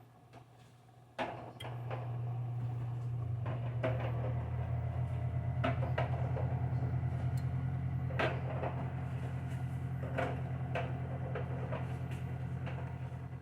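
A low, steady motor hum switches on suddenly about a second in and keeps running, with scattered clicks and knocks of kitchen items being handled over it.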